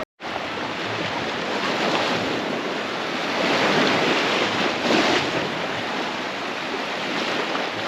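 Ocean surf washing onto a beach, with wind buffeting the microphone; the wash swells louder about halfway through.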